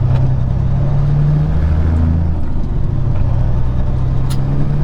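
Diesel engine of a Peterbilt 379 semi truck running under way, a steady low drone whose pitch steps up and down a few times as the truck pulls away after waiting for traffic.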